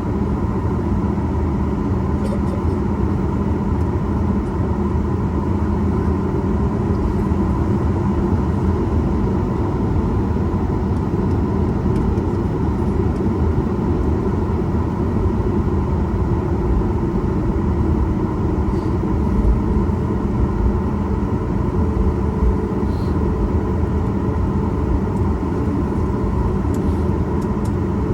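Steady cabin rumble of a Boeing 737 MAX 8 on the ground after landing, its CFM LEAP-1B engines idling, with a constant hum from the engines and air conditioning and a few faint clicks.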